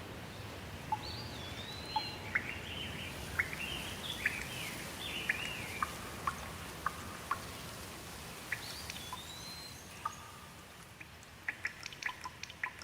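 Birds calling in short whistled notes that rise and fall, over a steady hiss of rain. Sharp drips of water tick more often near the end.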